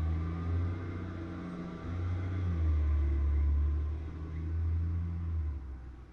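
Steady low rumble of a car driving, swelling and easing a few times.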